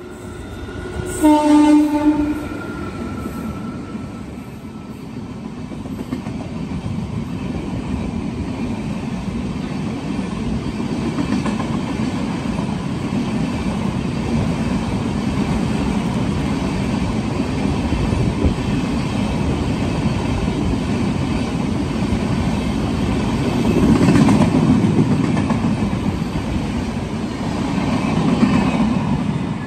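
A train's horn sounds once, briefly, about a second in. Then a passing train's steady rumble and wheel clatter carries on, swelling twice near the end.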